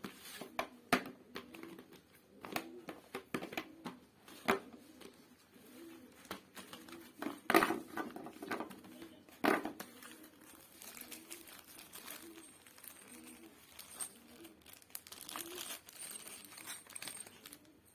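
Plastic packaging crinkling and tearing, with scattered sharp clicks and knocks from small gear motors, wheels and screws being unpacked and handled.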